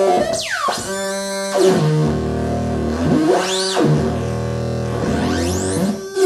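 Hand-built optical theremin noise synth playing buzzy, overtone-rich tones that step between pitches and sweep sharply down and up, with a low droning tone underneath for a few seconds in the middle.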